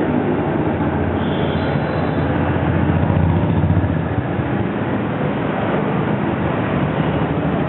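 Street traffic running continuously, a dense rumble of engines and tyres that swells louder about three to four seconds in as a vehicle passes close. A faint high squeal is heard briefly about a second and a half in.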